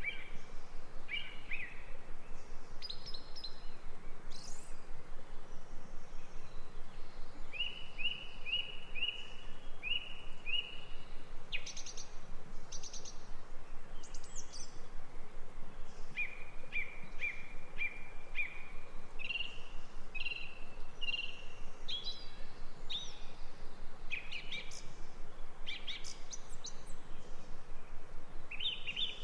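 Songbirds chirping: runs of short, quickly repeated high notes from several birds, over a steady even background hiss.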